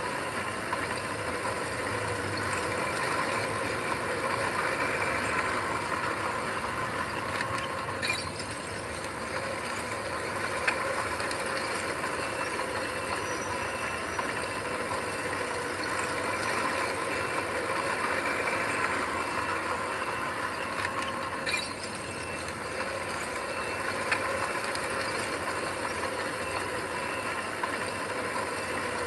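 Diesel engine of heavy earthmoving machinery running steadily, with a few brief clanks.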